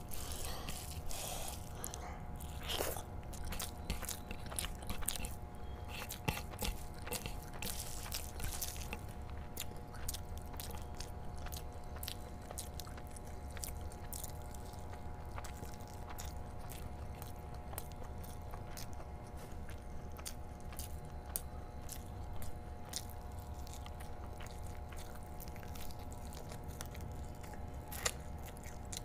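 Close-miked chewing of big handfuls of curry-soaked rice, full of small wet mouth clicks. Rice is squished and mixed by hand in the first several seconds. A faint steady hum runs underneath.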